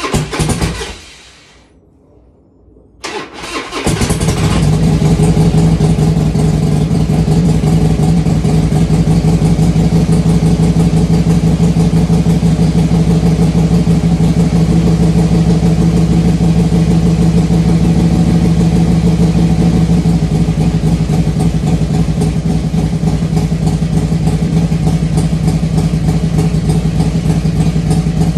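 2003 Harley-Davidson Heritage Softail's carbureted Twin Cam V-twin being started cold after sitting about five months: a first burst that dies away, a short pause, then it fires again about three seconds in and catches. It then runs steadily at idle, with the choke held to keep it going.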